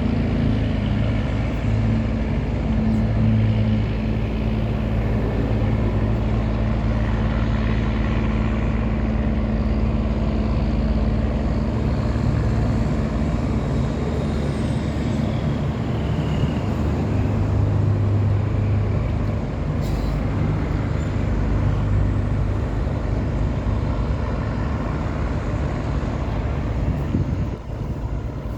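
A wooden tugboat's diesel engine runs steadily under load while towing heavily loaded barges, a constant deep hum over a noisy wash. It eases slightly near the end.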